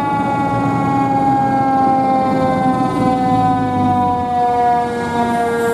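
Siren of a 2005 E-One Typhoon fire engine responding, one long tone falling slowly and steadily in pitch, over the low rumble of the truck's engine.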